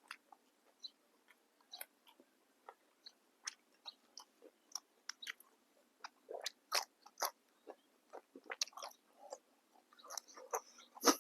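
A person biting and chewing crisp fresh raw vegetables, with irregular sharp crunches several times a second. The loudest crunch comes near the end.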